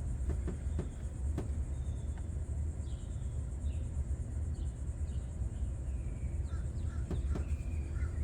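Outdoor ambience: a steady low rumble with short bird chirps from about three seconds in, and a few light clicks.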